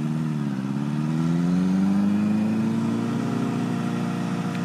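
Honda CBR1000RR's inline-four engine pulling away at low revs, its pitch rising over the first two seconds and then holding roughly steady.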